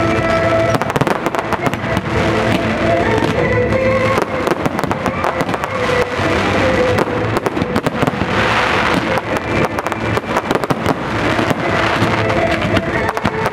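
A quick run of firework bangs and crackles, over music with sustained pitched notes. About eight to nine seconds in comes a denser burst of crackling.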